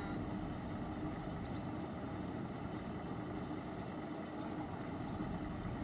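Truck engine running steadily: an even low rumble with a constant hum, and a few faint short high chirps over it.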